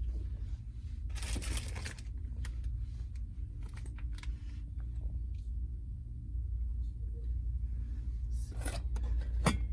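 Item-handling noise: a rustle of paper or plastic about a second in, then scattered light clicks and knocks, the sharpest near the end, over a steady low hum.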